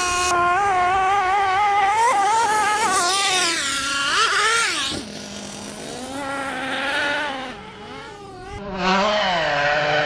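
Small engine of a radio-controlled monster truck revving up and down as it is driven, its pitch rising and falling; it drops away in level about halfway through and again near the end before coming back loud.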